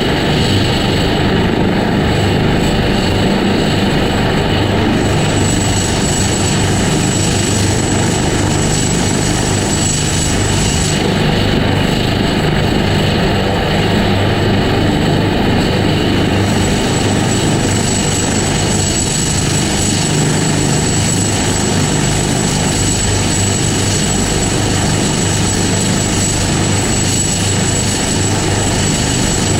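Helicopter running close by: a steady, loud engine and rotor noise with a thin high whine running through it.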